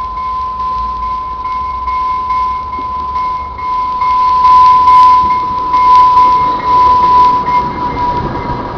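Northstar commuter train approaching the station platform: a steady high ringing tone over rapid, regular ticking, growing louder about halfway through.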